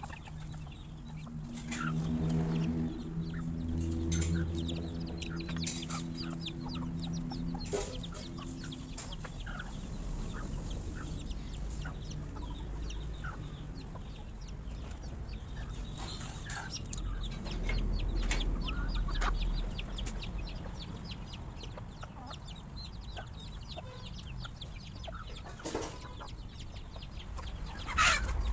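Chickens clucking while they feed, with many short ticks throughout. A steady, droning hum with a low pitch runs from about two to nine seconds in.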